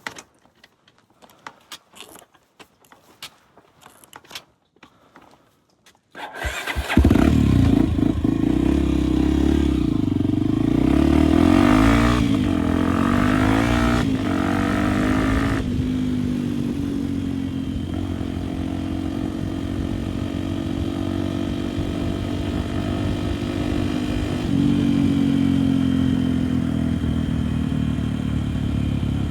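Faint clicks and scrapes for about six seconds. Then a dirt bike engine starts, revs up and down for several seconds and settles into steady running, a little louder near the end.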